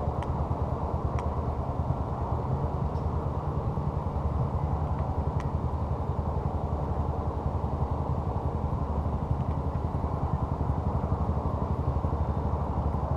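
An engine running steadily at idle, with an even low hum. A few faint sharp pops sound over it.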